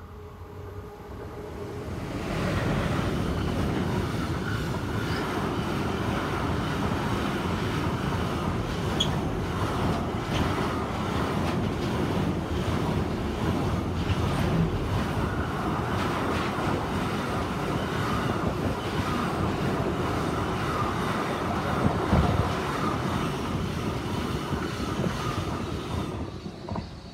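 Siemens Vectron electric locomotive and its long container train passing on the rails: a steady rumble and rail noise that builds over the first couple of seconds, holds through the wagons, and drops off suddenly as the last wagon goes by. One louder clunk stands out about two-thirds of the way through.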